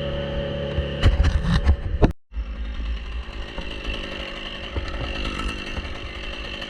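Chainsaw running: a steady idle, then about a second in a spell of loud knocks and clatter. The sound cuts out for a moment just after two seconds, and the saw then runs on with a rougher, noisier sound.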